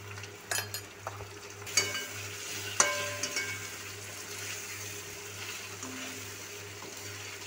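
Boiled taro (arbi) pieces sizzling in hot oil in a metal kadhai as they are stirred, with a few ringing metallic clinks against the pan in the first three seconds.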